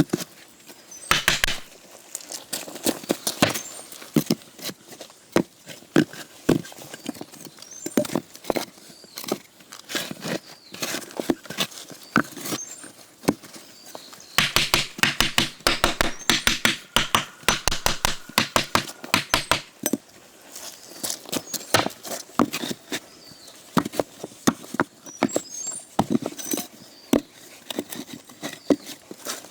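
Hand construction work: a dense run of short wooden and stony knocks and clacks, irregular and coming in clusters.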